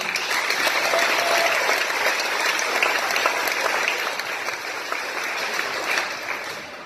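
Crowd applauding: many hands clapping at once, fading out near the end.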